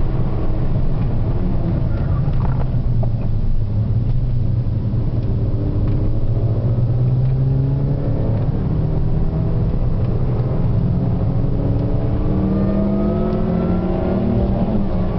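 Car engine pulling hard, its pitch climbing again and again and falling back between gear changes, over a steady low road rumble.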